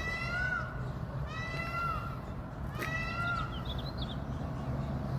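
A bird calling three times, about a second and a half apart, each call a short note that rises and then falls. A steady low hum sits beneath it.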